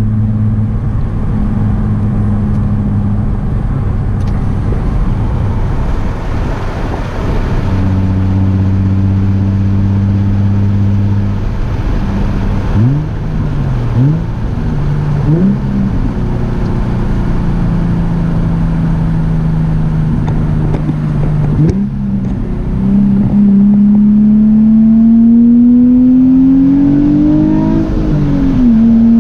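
Nissan 350Z's 3.5-litre V6 through an ISR single-exit cat-back exhaust on the move. The engine holds a steady note, gives a few quick throttle blips about halfway through, then pulls up through the revs with a rising note. Near the end it drops sharply at a gear change and climbs again.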